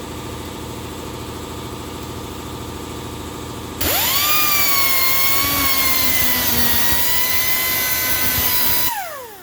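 A cut-off wheel cutting through a multi-layer steel head gasket to open up the stud holes. A steady lower hum runs first. About four seconds in, a loud high whine with hiss comes in, holds for about five seconds, then falls away as the wheel spins down near the end.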